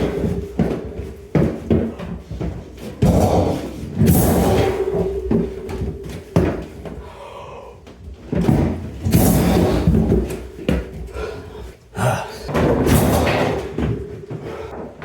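Repeated irregular thumps and bangs of a refrigerator being shoved and knocked up a staircase.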